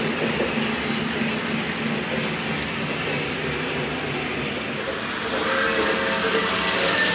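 O gauge model steam train running on track, with a steady rolling noise; about five seconds in, the locomotive sound system's steam whistle starts to sound and grows louder.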